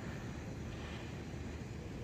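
Steady low rumble of wind on the microphone, with no distinct events.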